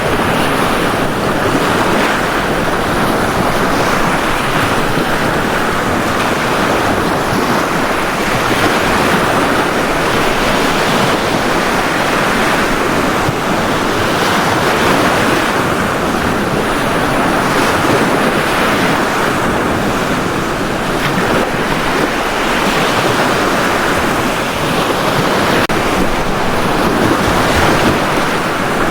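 Ocean surf on a beach: waves breaking and washing in as a steady rush that swells and eases gently.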